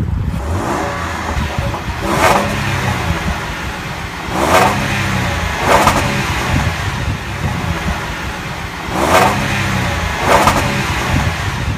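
A 2015 Land Rover LR4's 3.0-litre supercharged V6 running at idle and revved in five short throttle blips.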